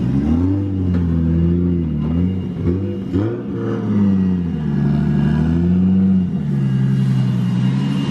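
Drift car engines on track, the revs rising and falling over and over as the throttle is worked through a drift, with a steady rumble underneath.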